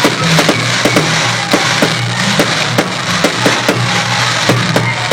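Music playing at a fireworks display, with frequent sharp cracks and pops from fireworks over a steady bass.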